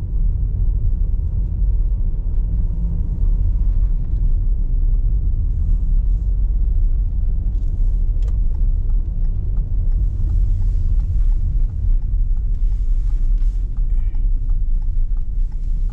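Car driving on snowy city streets: a steady low rumble of engine and tyre noise.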